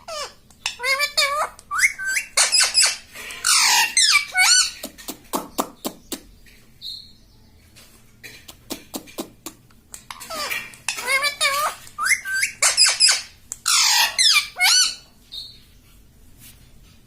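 Pet parrot chattering with rapid squeaky calls that glide up and down in pitch, in two spells: one starting about a second in and lasting some five seconds, another from about ten to fifteen seconds.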